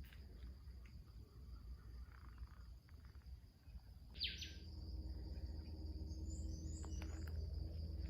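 Insects trilling steadily at a high pitch, with a short loud bird call dropping in pitch about four seconds in and a few high chirps after it. A low rumble grows louder in the second half.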